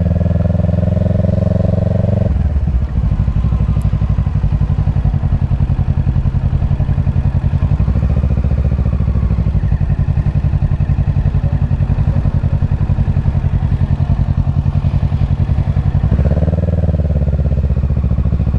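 Kawasaki Ninja 650's parallel-twin engine running at low revs: held slightly up at first, dropping to an evenly pulsing idle about two seconds in, and rising again briefly near the end.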